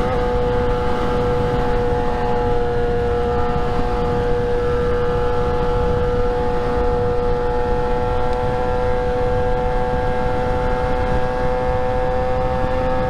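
Motorcycle engine holding one steady pitch at a constant cruising speed, with wind rushing over the microphone underneath.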